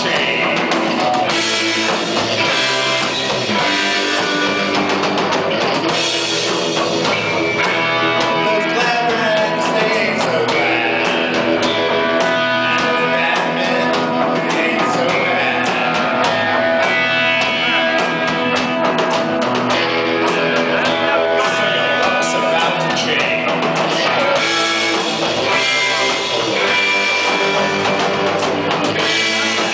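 Live rock band playing a song, with guitar and drum kit to the fore and some singing.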